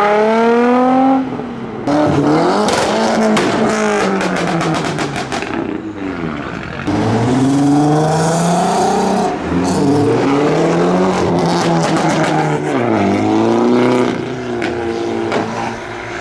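Modified car engines revving hard, the note climbing and falling several times. Between about two and six seconds in there is a fast run of sharp exhaust pops and bangs on the overrun.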